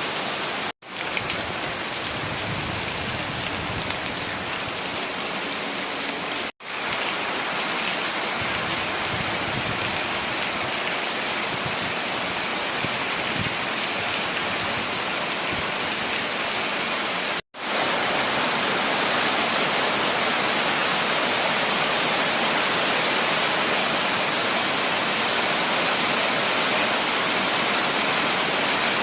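Steady rain falling, an even hiss, cut off three times by split-second silent gaps that sound like edits between takes.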